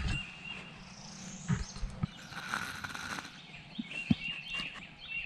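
Wild songbirds chirping, short high notes repeated every so often, with a rising whistle about a second in. A few soft knocks are heard along the way.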